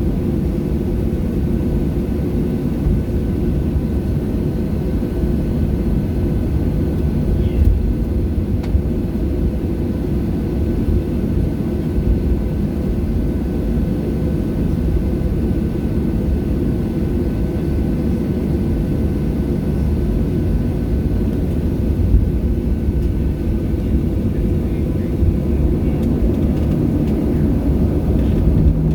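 Boeing 737-700 cabin during takeoff: the steady, loud, deep rumble of the CFM56 engines at high power, mixed with airflow noise.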